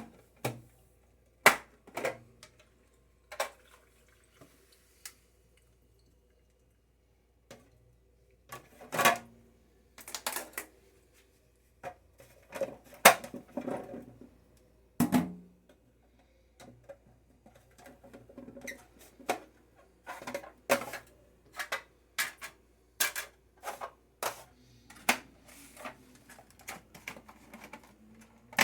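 Irregular clicks and knocks of hard acrylic containers and their lids being handled and set down. The knocks fall quiet for a few seconds after about five seconds.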